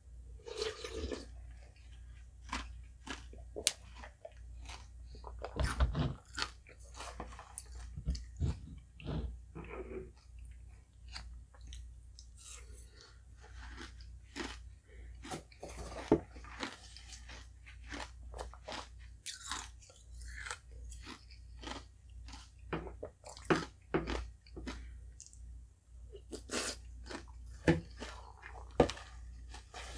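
Close-up chewing and crunching of shaved ice and halo-halo toppings: irregular crisp crunches and wet mouth sounds. A metal spoon clicks against the bowl now and then.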